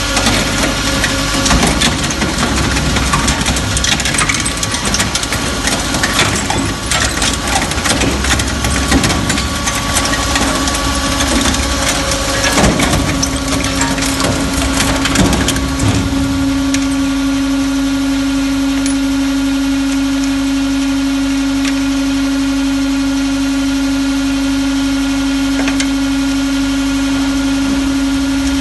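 McIntyre 1300 Boss engine cracker breaking up an engine: irregular metal cracking and crunching over the steady hum of its hydraulic power unit. About sixteen seconds in the crunching stops, and only the machine's steady humming drone carries on.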